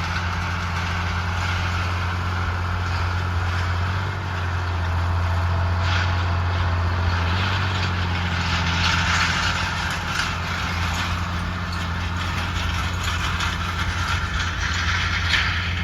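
Farm tractor engine running at a steady speed, a constant low hum with a steady hiss over it.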